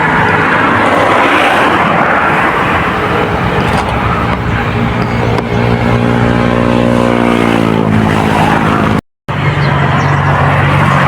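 An engine running; its pitch falls from about six to eight seconds in. Near the end it cuts out for a moment, then runs on as a steady low hum.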